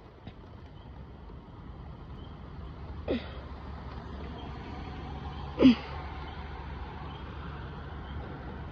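Thunder rolling in a passing thunderstorm: a low rumble that builds over the first few seconds and then holds steady. Two short sounds fall in pitch, about three seconds in and again, louder, about five and a half seconds in.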